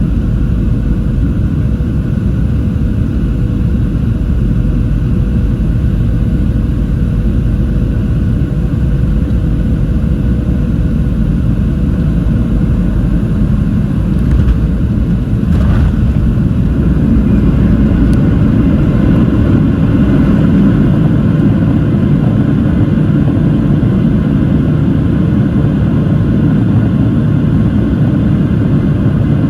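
Boeing 737-700 cabin noise: a loud, steady rumble of engines and airflow. A thin steady tone fades out about halfway, and the rumble swells a little after a brief click.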